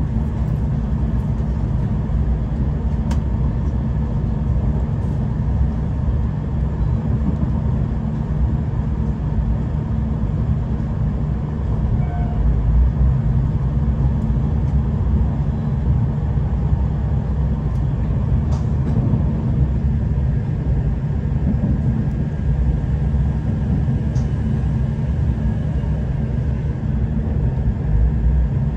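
Steady low rumble of a V/Line diesel passenger train running at speed, heard from inside the carriage. A few faint clicks sound over it.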